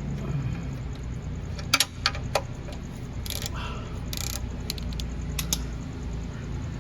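Metal clinks and short scrapes of a wrench and drain plug being handled under a car during an oil change: a few sharp clicks about two seconds in, two brief scrapes, then more clinks near the middle.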